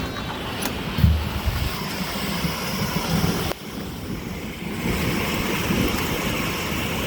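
Wind gusting over the microphone with the steady hiss of rain, a heavy buffet about a second in. The sound drops suddenly about three and a half seconds in, then builds back.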